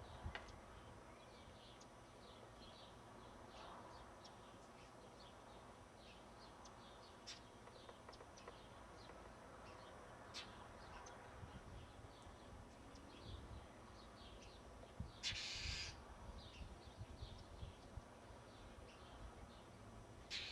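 Faint, repeated short bird chirps, many times over, with one louder, harsh noisy sound lasting under a second about fifteen seconds in.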